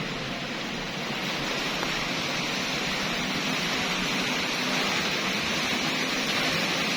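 Strong wind blowing in a steady rushing hiss that grows a little louder about a second in.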